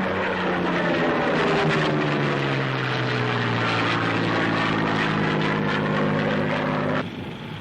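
Propeller aircraft engines droning, their pitch falling steadily as a plane passes, then cutting off suddenly near the end.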